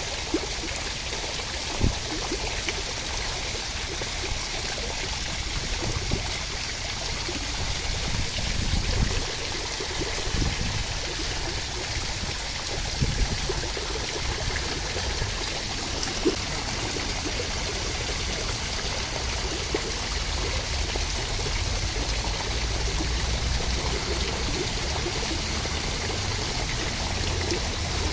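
Steady rushing water, an even continuous hiss, with a few short low thumps scattered through it.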